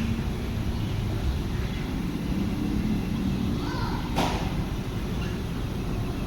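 Huebsch commercial washing machine running with a steady low rumble, with one short sharp knock about four seconds in.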